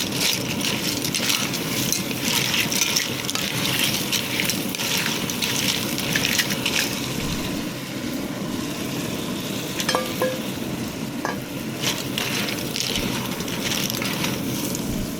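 Food sizzling and crackling in a hot pan while being stirred, with a few brief clinks of a utensil against the pan about ten seconds in.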